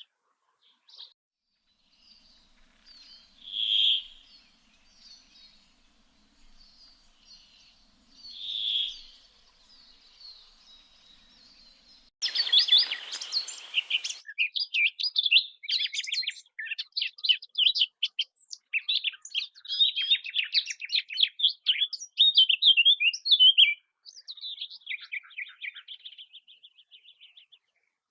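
Songbirds singing: a few separate calls in the first half, then about halfway through a loud, busy run of rapid chirps and trills that thins to a softer, steady trill near the end.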